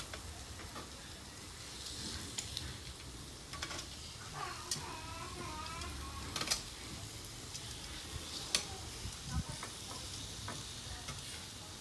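Marinated beef and chicken sizzling on a barbecue grill, with a few sharp clicks.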